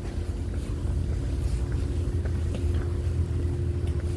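Steady low drone of a Washington State ferry's engines heard from on board, with a steady hum above it and a few faint light ticks.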